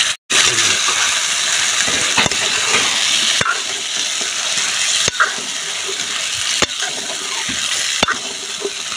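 Chicken and freshly added ground spinach sizzling steadily in a hot kadhai while a metal ladle stirs them, the ladle clinking against the pan every second or two.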